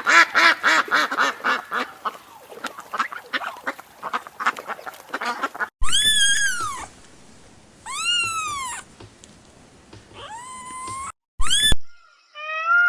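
Animal calls in two clips. First comes a quick run of many short, overlapping calls. After a sudden cut come two long calls that rise and fall in pitch, then a rising call and a short one near the end.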